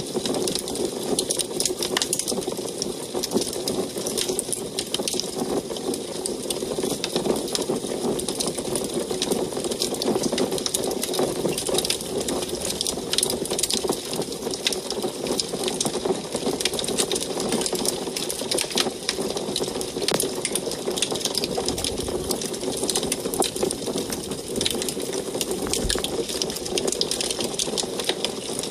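Wood fire burning in an antique wood stove, crackling with many quick irregular pops and snaps over a steady low rush of the flames.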